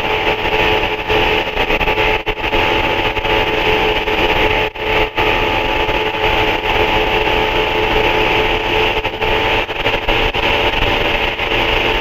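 Steady drone and hiss of the ultralight aircraft's engine and propeller, heard through the cockpit headset/radio audio feed, with a few brief dropouts.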